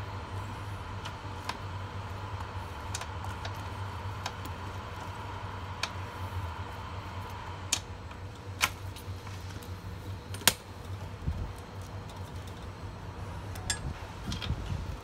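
Scattered sharp metallic clicks and taps of hand tools and hose fittings being handled, louder and more frequent in the second half, over a steady low hum.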